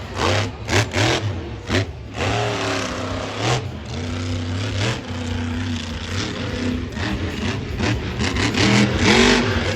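Monster truck engine revving hard in repeated quick bursts, its pitch climbing and falling, with a steadier held stretch through the middle and more sharp revs near the end.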